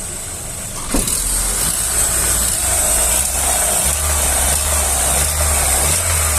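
Chevrolet Astra's engine running, with a sharp knock about a second in, after which the engine is markedly louder and steady. It is the engine whose faint, hard-to-catch noise is being diagnosed.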